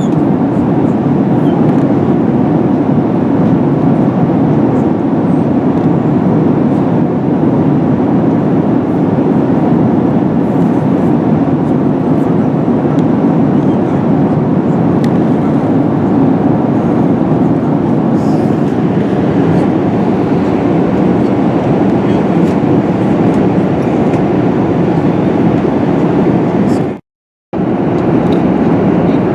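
Steady cabin roar of an Airbus A380 at cruise altitude, the rushing airflow and engine noise heard inside the passenger cabin. It drops out to silence for about half a second near the end.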